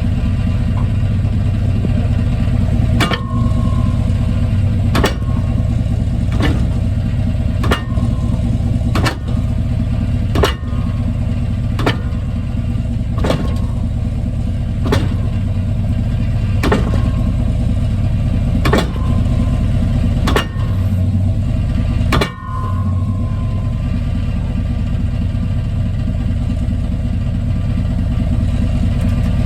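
1995 Chevy Silverado pickup with a 5.7 V8, heard from underneath, running with a steady low drone. Sharp clunks come about every second and a half and stop about three-quarters of the way through: the drivetrain clunk being hunted.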